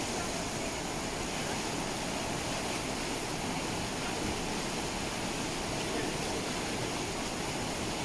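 Rhine Falls, a large waterfall on the Rhine, giving a steady, unbroken rush of falling water.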